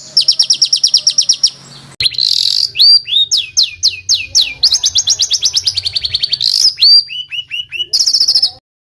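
Songbird song made of fast, dense rolls: rapid trills of repeated high notes alternating with runs of quick downward-sweeping whistles, played as a masteran tutor track of harsh 'tembakan' phrases. The song changes abruptly about two seconds in, as if spliced, and cuts off suddenly near the end.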